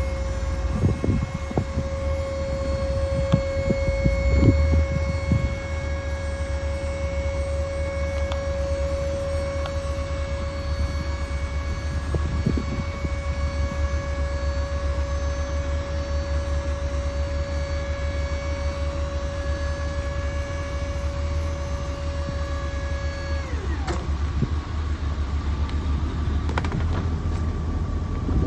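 2003 Chevrolet Silverado 3500 dump truck running, with a low steady rumble and a steady mechanical whine over it. The whine winds down in pitch and stops about 23 seconds in, while the rumble carries on.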